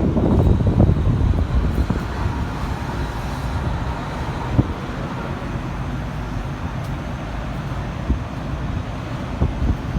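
Steady low rumble of a road vehicle running, with a few faint knocks.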